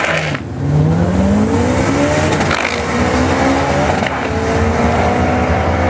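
Classic Fiat 500 drag car launching off the line and accelerating hard down the strip. Its engine note rises through the gears and drops back at upshifts about two and a half and four seconds in.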